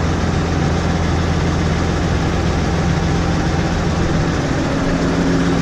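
New Holland 6080 tractor engine idling steadily, with a higher steady tone joining about four seconds in.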